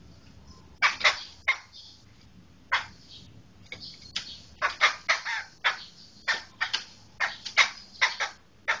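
A black laughingthrush (poksai hitam) calling in a series of short, harsh notes, scattered at first and then coming in quick clusters through the second half.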